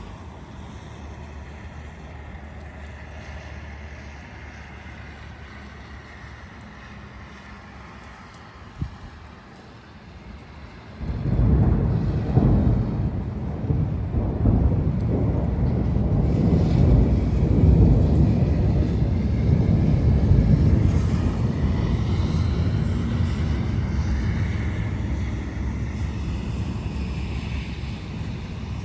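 Steady rain noise, then about a third of the way in a sudden loud, low rolling rumble of thunder that carries on for over ten seconds and slowly fades.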